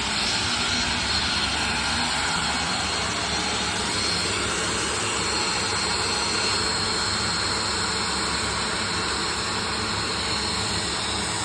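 Turbofan engines of an Embraer Phenom business jet running steadily: an even jet rush with a thin, high, constant whine.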